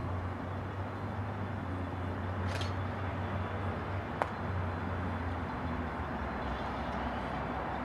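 Distant diesel commuter train approaching, a steady low engine rumble and hum with rail noise. A single sharp click comes about four seconds in.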